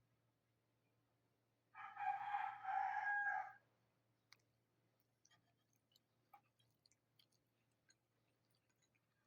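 A rooster crows once, a single call of about two seconds starting a little under two seconds in. Faint scattered clicks of pecking at food follow.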